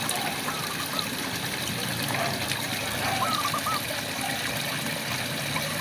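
Steady rain falling, with frogs calling over it in short wavering trills several times.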